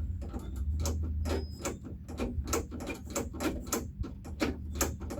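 Jeep Wrangler door latch mechanism worked by hand over and over, giving a quick run of small clicks, about four a second. The latch is not returning as it should.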